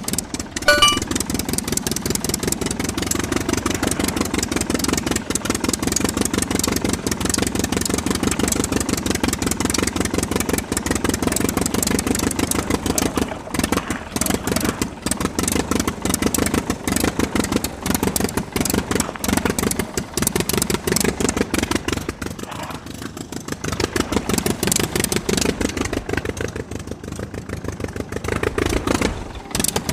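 Miniature Kubota RD85-style diesel engine running steadily, driving a water pump, with fast even firing pulses. It briefly slows and quietens twice in the latter part.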